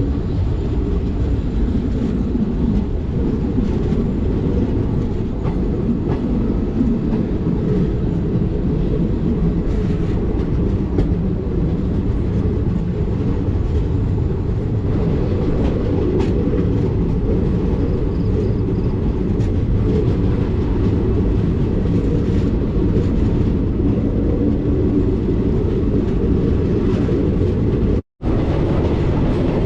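Passenger train running along the track: a steady, loud rumble of wheels on rails with some clicking. The sound cuts out for an instant near the end.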